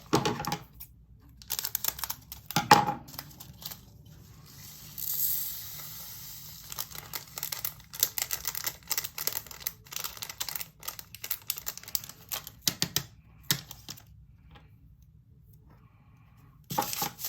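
Small plastic storage containers and bags of diamond-painting drills being handled: scattered clicks and taps of plastic, with a stretch of plastic-bag rustling about five seconds in.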